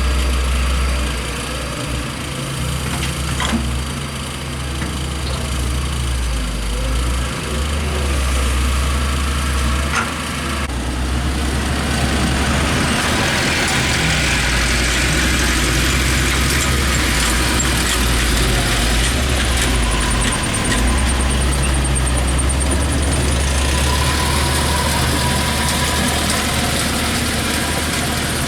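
Heavy diesel engine of earthmoving machinery running steadily with a deep rumble. From about ten seconds in, a louder higher-pitched working noise joins it.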